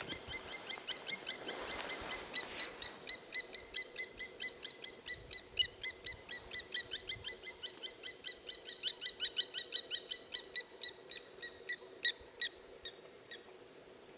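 A bird calling a long, even series of short, high notes, about five a second, that stops shortly before the end.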